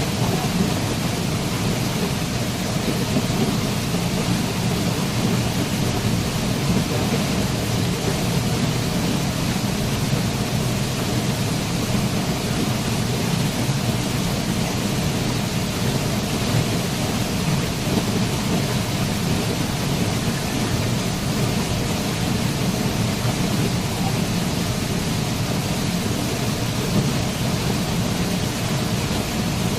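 Waterfall: water falling and rushing steadily, with a deep rumble underneath and no breaks.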